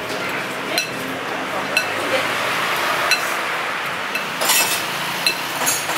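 A spoon clinking against a noodle bowl, about six sharp, irregular taps with a short ring, over steady restaurant background noise.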